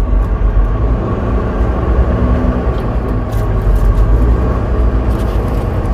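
Semi truck's diesel engine heard from inside the cab, running steadily with a deep rumble as the truck pulls away from a stop sign.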